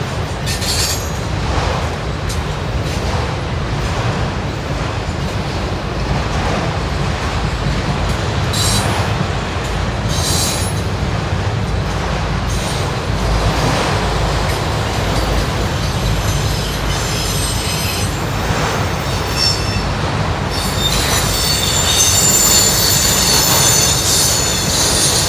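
Freight train of auto rack cars rolling past, a steady rumble of wheels on rail with short high squeaks; near the end a sustained high-pitched wheel squeal sets in.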